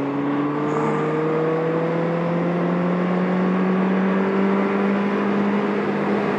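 Yamaha XJ750 Seca's air-cooled inline-four engine pulling steadily in gear, its pitch rising slowly as the motorcycle gains speed.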